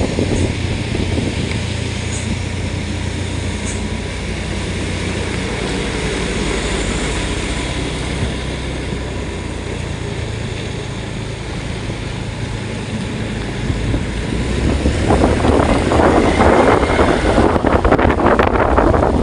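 A vehicle running steadily, with wind noise on the microphone that grows louder and rougher about fifteen seconds in.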